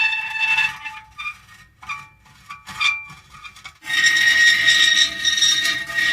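Metal creaking: long drawn-out squeals that break off about a second in. Short creaks and clicks follow, then another long, steady squeal starts about four seconds in.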